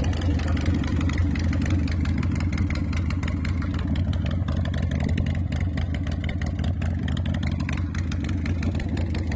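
2001 American IronHorse Tejas chopper's V-twin engine idling steadily.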